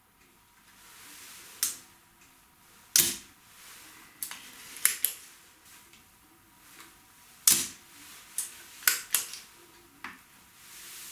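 Hands working at a bench, handling small parts and tools: a string of sharp clicks and knocks at uneven intervals, the loudest about three seconds in and again about seven and a half seconds in.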